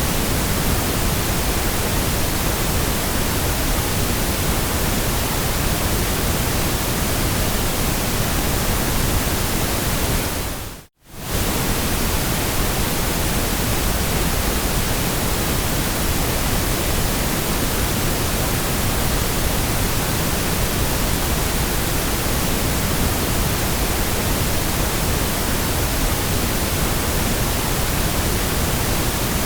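Steady white noise, an even hiss across the whole range from low to high. About eleven seconds in it fades down to near silence for a split second and comes straight back up.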